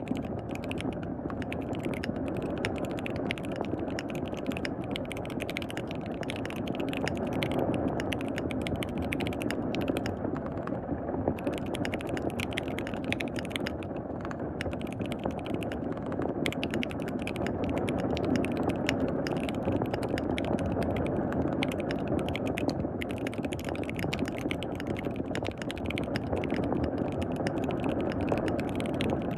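Fast typing on a KBD67 Lite R3 mechanical keyboard with lubed switches, a dense run of keystroke clicks that stops for about a second near the middle. Under it runs the steady hiss of rain.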